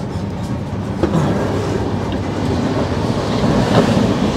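Passenger train coach running, a steady low rumble with faint wheel clatter, heard from inside the sleeper coach corridor.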